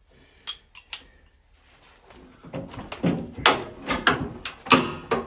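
Two sharp metal clicks, then a run of loud, sharp clacking strokes, two to three a second, from about two and a half seconds in: a socket wrench with an extension being worked on a gas-tank mounting bolt.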